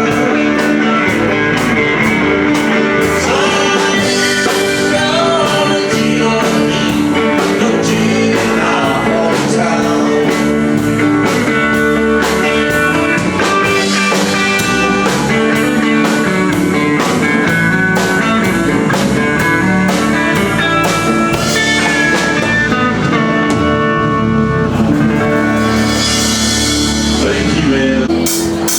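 Live band playing a country-rock number: guitars over a steady drum beat.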